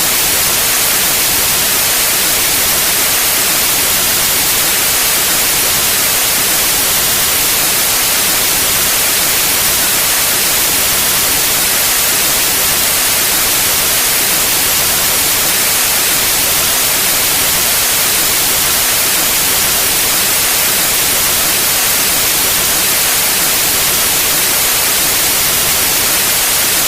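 Steady pure white noise: an even, unchanging hiss across the whole range, brightest in the highs.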